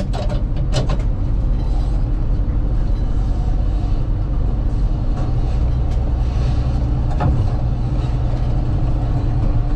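A steady, loud low rumble, with a few short clicks and knocks on top.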